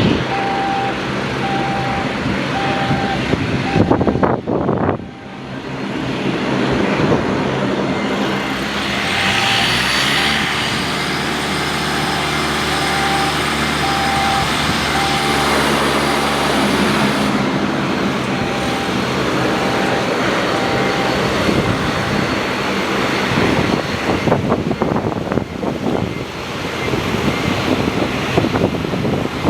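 An aircraft passing: engines hum low with a high whine, swelling from about a quarter of the way in and fading a little past the middle. Strong wind buffets the microphone, loudest near the start and near the end.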